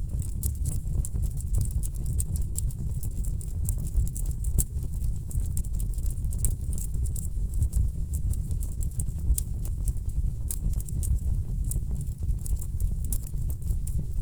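Wood fire crackling in a fireplace: a constant low rumble of burning logs with frequent irregular sharp crackles and pops.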